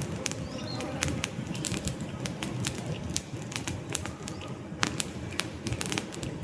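Wood fire crackling in a fireplace: many irregular sharp pops and snaps from the burning logs over a steady low rumble of the flames.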